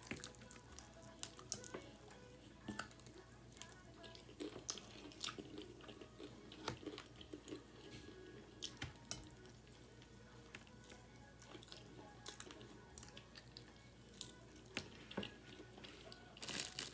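Eating sounds from biting and chewing fried chicken off the bone: irregular wet mouth clicks and smacks, with a louder cluster near the end.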